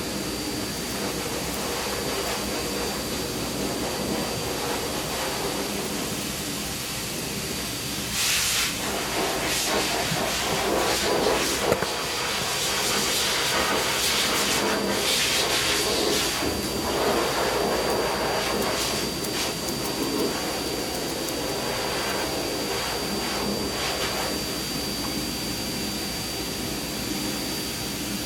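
Steady hissing machine noise with a constant high whine, swelling in louder surges through the middle stretch.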